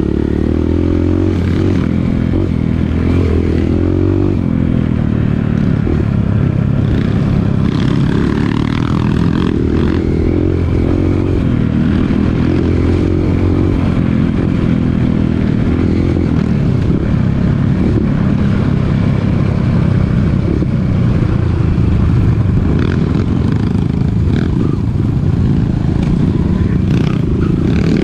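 Dirt bike engine running under way, its pitch rising and falling with the throttle, with some clattering from the bike over rough ground.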